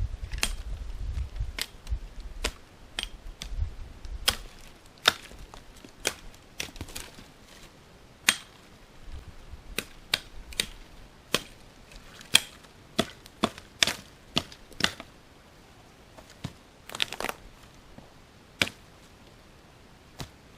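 Dry sticks and twigs snapping, as sharp single cracks at irregular intervals of about a second. A low rumble fades out in the first few seconds.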